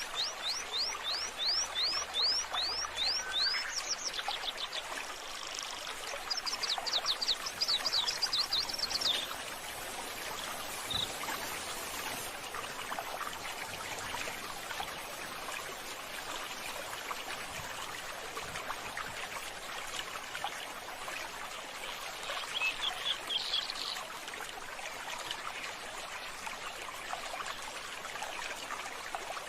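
A bird singing three bouts of rapid, evenly repeated high rising notes, over the steady rush of running water such as a stream or fountain.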